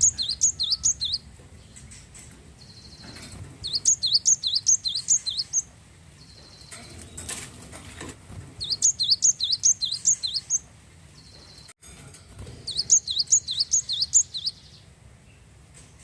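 Glatik wingko singing: repeated bouts of rapid, high, sharp chirping notes, about five to the second. Each bout lasts around two seconds, with pauses of two to three seconds between.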